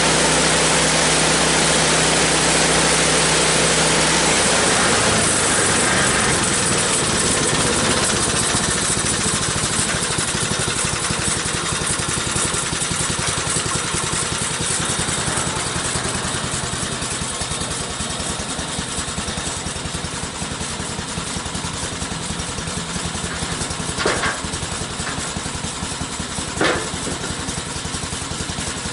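Gasoline engine of a homemade bandsaw sawmill running. Its steady note changes to a rougher, slightly quieter sound about four seconds in, and two sharp knocks come near the end.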